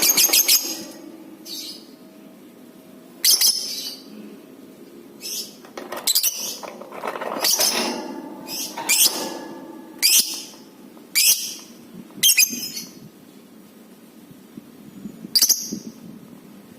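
Lovebird giving short, shrill chirping calls, about a dozen sharp calls at irregular intervals over softer background chatter.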